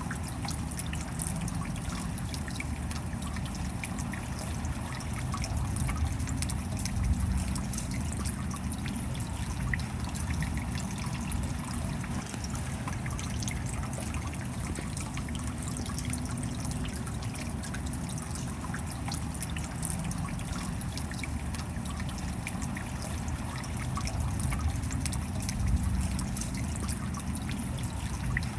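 Steady rain, with many small drops pattering and water trickling and dripping; it swells a little twice.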